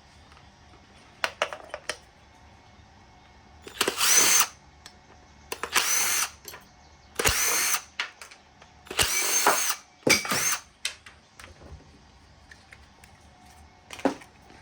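Power drill run in about five short bursts of under a second each, its motor pitch rising at each squeeze of the trigger, with a few light clicks of metal parts between bursts.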